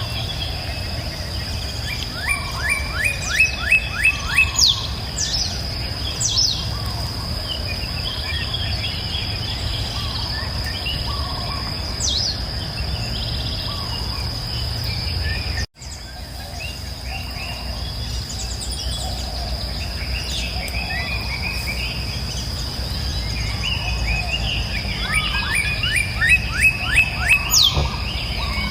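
Birds singing over a steady high insect drone and a low rushing of river water. One bird gives a fast series of rising notes twice, about three seconds in and again near the end, with scattered chirps between; the sound drops out for an instant about halfway through.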